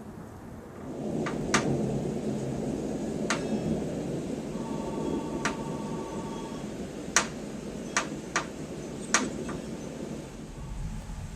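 A long roll of thunder from a thundersnow storm swells about a second in and rumbles on for several seconds before easing off near the end. Several sharp ticks or taps are heard over it.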